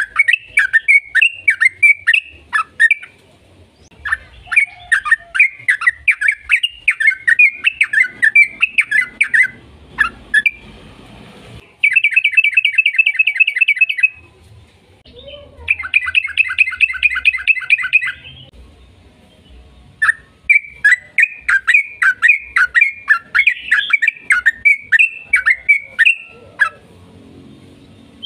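Yellow-vented bulbul (trucukan) singing long, rapid runs of sharp chattering notes, broken by short pauses, with two stretches of fast, even trill near the middle.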